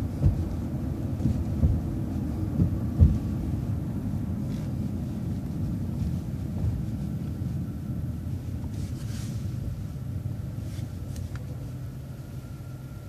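Low, steady road rumble inside a moving vehicle, with a few sharp thumps in the first three seconds, easing slightly quieter toward the end.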